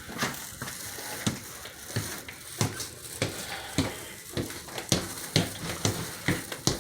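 Footsteps walking at about two steps a second, each a soft thump, over a steady rustling hiss.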